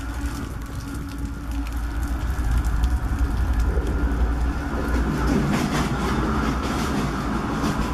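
CSX freight train's diesel locomotives approaching and passing close by: a deep engine rumble growing louder over the first few seconds, then wheels clicking over the rails as the locomotives go past in the second half.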